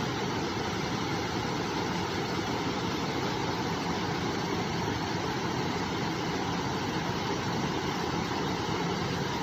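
River water flowing steadily, an even, unbroken rush of noise.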